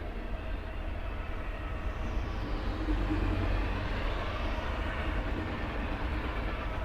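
Intermodal freight train rolling past, a steady low rumble of wheels and stack cars on the rails that swells slightly in the middle, with a faint high whine falling in pitch.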